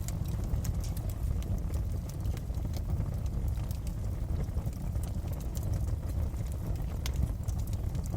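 Wood fire crackling in a fireplace: a steady low rumble of burning with scattered sharp pops and snaps throughout, one louder snap about seven seconds in.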